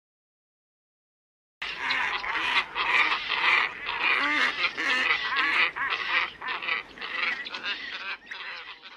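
Silence for about the first second and a half, then a flock of ibises calling: many harsh, honking calls overlapping densely, thinning out near the end. It is a looped bird-lure recording.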